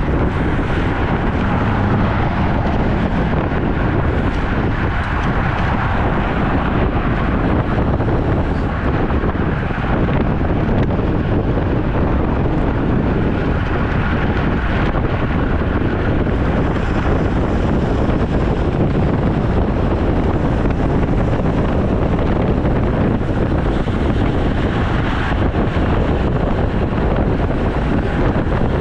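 Steady, loud wind noise rushing over the microphone of a camera carried on a moving road bicycle.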